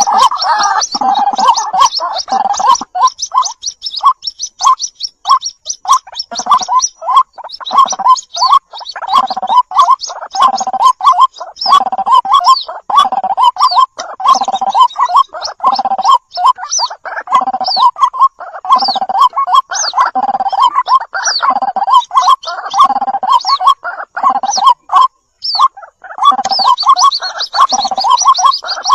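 White-breasted waterhen calling over and over: loud, gargling, croaky notes about one or two a second, each with a high squeaky note on top. A fast rattling run of notes opens the series and starts again near the end.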